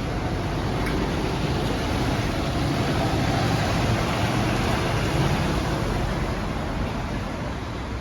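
A bus pulling away from its stand and driving past. Its engine and road noise grow louder to a peak about halfway through, then fade as it moves off.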